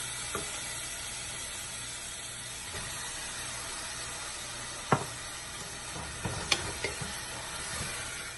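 Onions, herbs and freshly added chopped tomatoes sizzling in ghee and oil in a pressure cooker pan, a steady hiss. A wooden spatula stirs and knocks against the metal pan a few times, most sharply about five seconds in.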